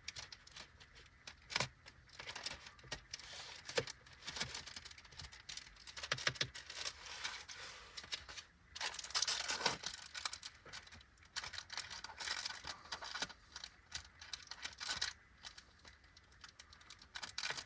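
Plastic film of a frozen microwave meal tray crinkling and tearing, with irregular clicks and scrapes of the food being stirred in the plastic tray. The busiest stretch of rustling comes about nine seconds in.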